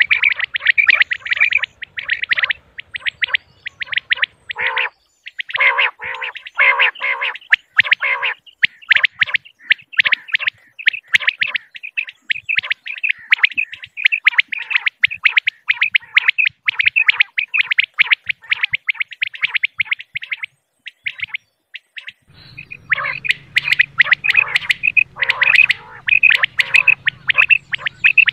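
Female common quail calling: a dense, rapid run of short, high repeated chirping notes, with a brief lull a little over two-thirds of the way through. A faint low hum sits under the calls near the end.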